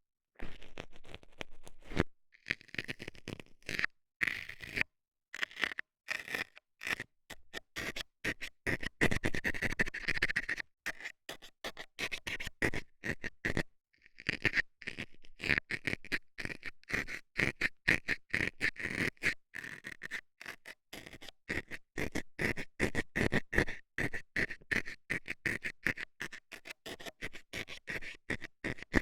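Metal dental scaler scratching and jabbing rapidly in an ear, many quick strokes a second. Brief pauses come about 2, 5 and 14 seconds in.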